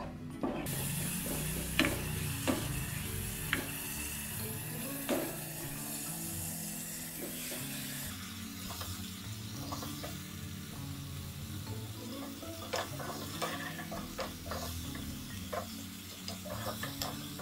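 Blended salmon paste sizzling as it sautés in soybean oil in a nonstick saucepan, stirred with a spatula that scrapes and taps against the pan many times. The sizzle eases after about eight seconds as the wet paste cooks down into dry crumbs.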